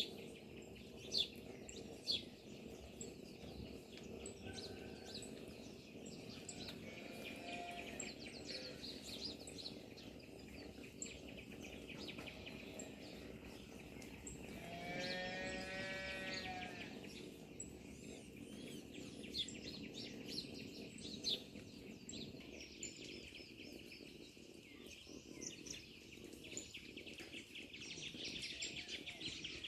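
Birds chirping and singing steadily in the countryside. About halfway through, a farm animal gives one call lasting about two seconds.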